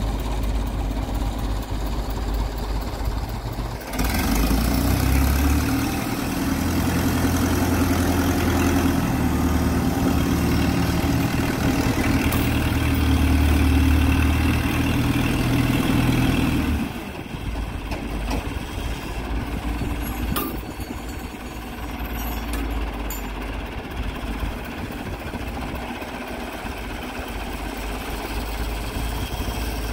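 An engine running, much louder from about four seconds in until about seventeen seconds, then running on more quietly.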